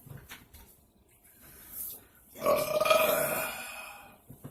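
A person burping: one long, loud belch that starts a little over two seconds in and trails off.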